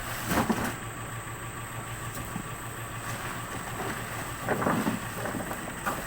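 A motor vehicle's engine running steadily at idle, with a couple of brief louder noises about half a second in and again near the end.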